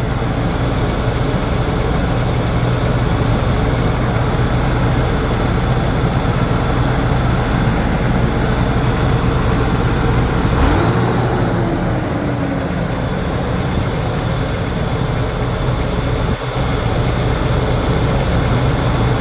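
Ford SVT Lightning's supercharged 5.4-litre V8 idling steadily after a cold start, with a very slight noise that the owner takes for a pulley bearing or belt-drive noise, or possibly cold piston slap. About ten seconds in there is a brief swell with a short rising-then-falling tone.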